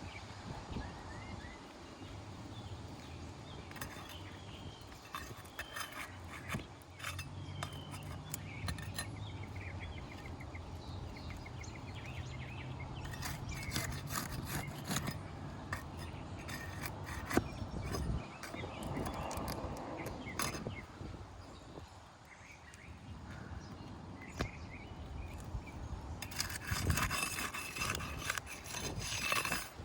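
Hand work on asphalt roof shingles: scattered clicks and light knocks, with a longer scraping, rustling stretch near the end. Birds chirp now and then, and a low hum runs through the middle.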